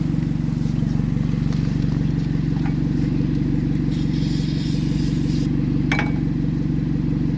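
Car engine idling steadily, just started off a jump pack.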